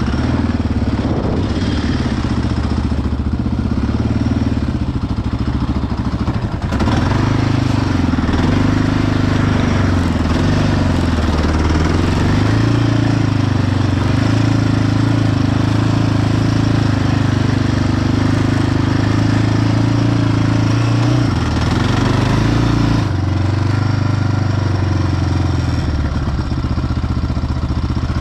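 Yamaha Raptor ATV's single-cylinder four-stroke engine running under throttle. Its pitch steps up about a quarter of the way in, holds with small changes, and drops back near the end.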